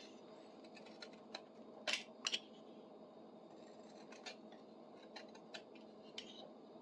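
Faint, scattered clicks and light scrapes of a wooden handle and a metal tool being handled at a workbench, about eight short ticks over a low steady background, the loudest pair around two seconds in.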